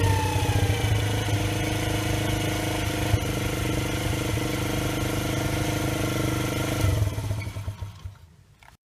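Romet CRS 50 4T's 50 cc four-stroke single through an aftermarket fake Akrapovič exhaust, revs dropping back to a steady idle at the start. Near the end the engine sound fades away and stops abruptly.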